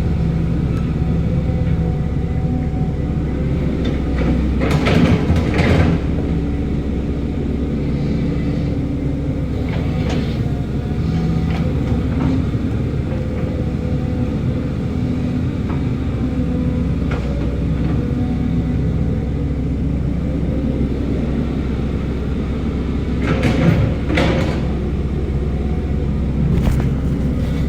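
Heavy earthmoving machine's diesel engine running steadily, with two short spells of metallic clatter, about five seconds in and near the end.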